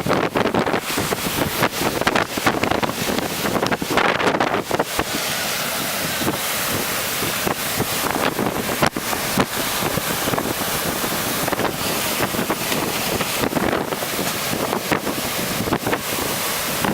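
Hurricane Irma's wind blowing hard and gusting, buffeting the microphone in many uneven blasts.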